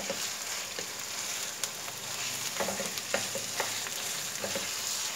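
Raw chicken mince sizzling in oil with chopped onions in a non-stick wok, stirred with a wooden spatula that scrapes the pan in a few short strokes.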